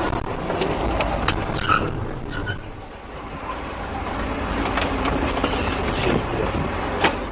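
Car driving, heard from inside through a dashcam: a steady rumble of engine and road noise with a few light ticks.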